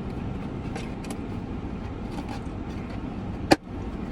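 Steady low rumble of a car's running engine heard inside the cabin, with a sharp click about three and a half seconds in.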